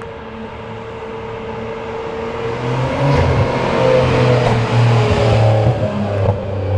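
Nissan Skyline R32 GT-R's twin-turbo straight-six engine running as the car is manoeuvred at low speed. It grows louder about three seconds in, then holds with small throttle changes.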